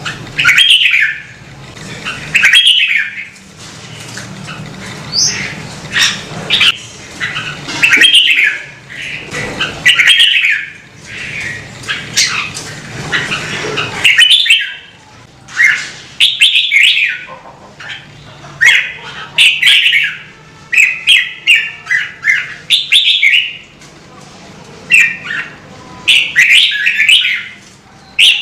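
Red-whiskered bulbul singing loud, short warbled phrases, one after another every second or two.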